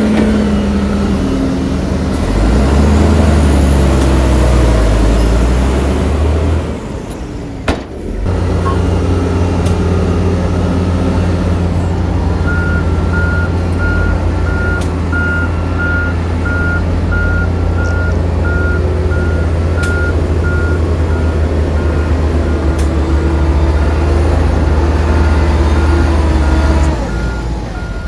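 Heavy diesel engine of earthmoving machinery running hard, its pitch rising and falling in the first few seconds and easing off briefly around seven seconds in. From about twelve seconds in, a reversing alarm beeps steadily at about one and a half beeps a second while the engine keeps running.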